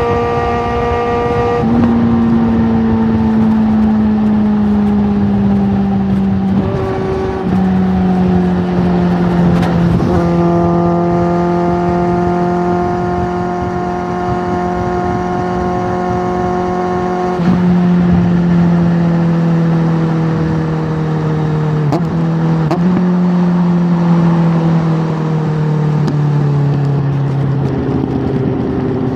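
Suzuki GSX650F inline-four motorcycle engine running through an aftermarket Tiger exhaust, its note drifting slowly lower with several sudden pitch steps, as with gear changes while riding.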